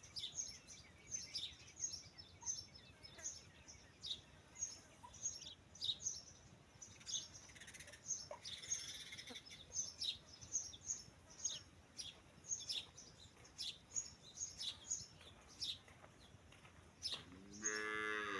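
Small birds chirping steadily, short high chirps several times a second. Near the end comes a brief pitched call lasting about a second.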